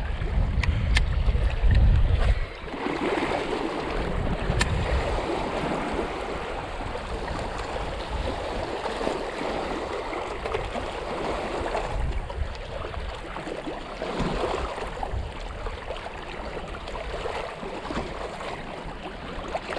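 Wind rumbling on the microphone for the first couple of seconds, then a steady wash of water lapping at the shore.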